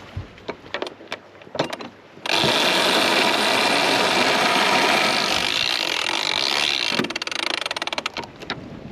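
A sailboat winch as a sheet is eased: a few ratchet clicks, then a loud whirring rush from about two seconds in as the line runs out fast around the drum. The whirr gives way to a quick run of ratchet clicks that slows and stops.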